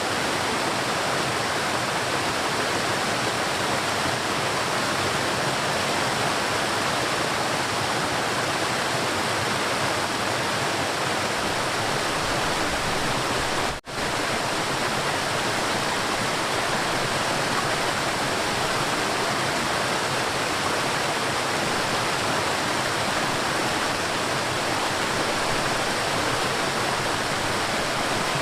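River water flowing, a steady, even rushing. The sound cuts out for an instant about halfway through, then resumes unchanged.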